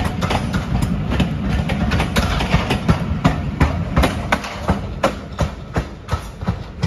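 Heritage railway passenger coaches rolling past, their wheels clattering over rail joints in a rhythmic clickety-clack over a low rumble. The clatter thins out and fades near the end as the last vehicle goes by.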